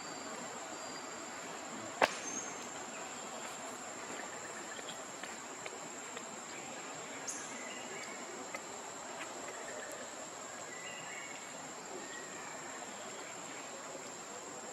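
Insects droning in one steady high pitch over a background hiss, with a single sharp click about two seconds in and a few faint chirps.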